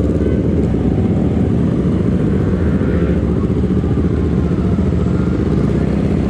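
Motorcycle on the move, heard from the rider's camera: a steady low rumble of engine and wind buffeting on the microphone.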